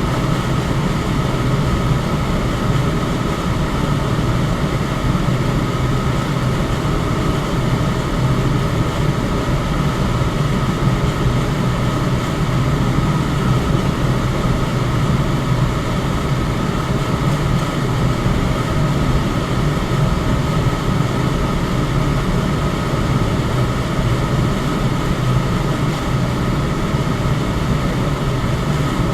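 Electric fan running steadily: an even rush of air with a low hum and a faint high whine, unchanging throughout.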